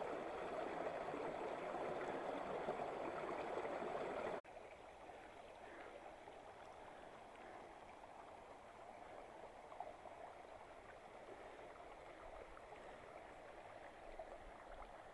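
Rushing water of a mountain river running over rapids. About four seconds in it cuts abruptly to a fainter, steady water sound.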